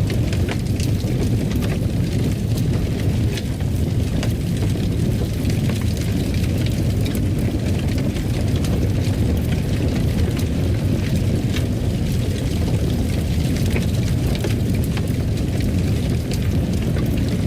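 Fireplace fire burning, with a steady low rumble and many small irregular crackles throughout.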